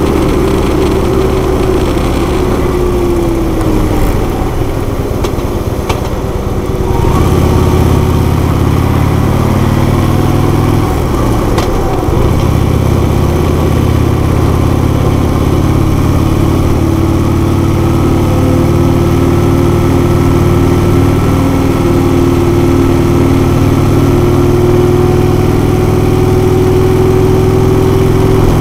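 Harley-Davidson Road King's V-twin engine running at highway speed, with wind and road noise. The engine eases off a few seconds in and pulls harder again about seven seconds in, then holds steady.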